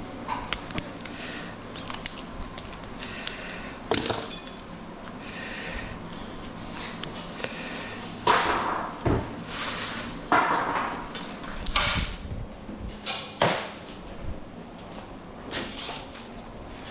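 Irregular knocks, clanks and scraping as scrap metal and wire are handled, with a brief metallic ring about four and a half seconds in.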